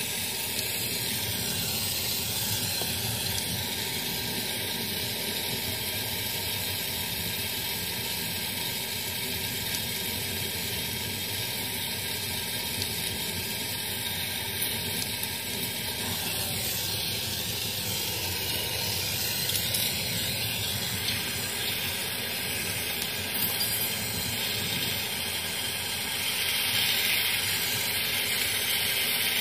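Gas brazing torch hissing steadily while the refrigerator's tubing is soldered.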